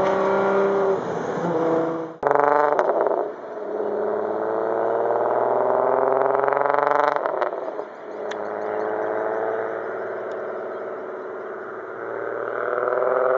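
2004 VW Golf R32's 3.2 VR6 engine through an Autospeed exhaust pulling hard at full throttle, revs climbing, dropping briefly at a gear change about seven and a half seconds in, then climbing again. A sudden break in the sound about two seconds in.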